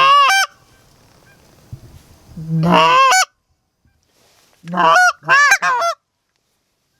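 Canada goose honks in three loud bursts, about a second and a half apart. Each burst starts on a low note and breaks up into quick higher-pitched honks.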